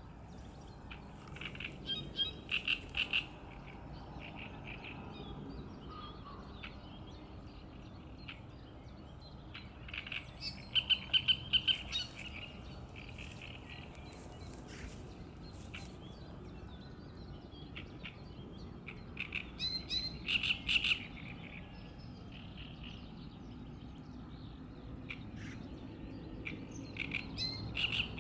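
A songbird singing loud, short phrases of rapid repeated notes, one phrase about every eight or nine seconds, over a faint steady low background noise.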